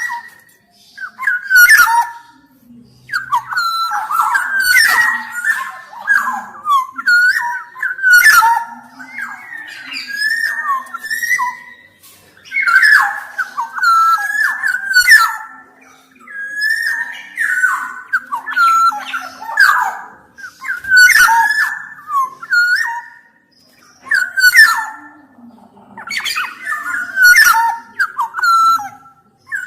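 Black-naped oriole (kepodang) singing: a long run of short phrases of fluty, sliding whistles mixed with harsher notes, each phrase a second or two long with brief pauses between.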